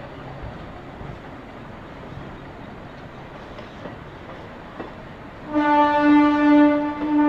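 Coaches of an old DC suburban electric train, unpowered and hauled by a diesel shunter, rolling slowly past with a steady rumble of wheels on rail. About five and a half seconds in, a train horn starts suddenly: one loud, long, steady note that is still sounding at the end.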